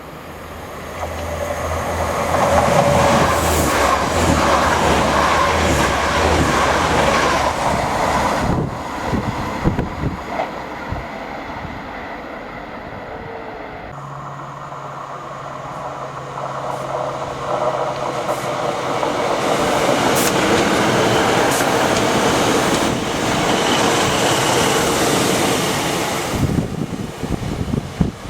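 A train running past close by, a steady low engine note under a loud rush of wheel and rail noise that builds and fades. About halfway the sound changes abruptly, and a second train pass swells up and dies away near the end.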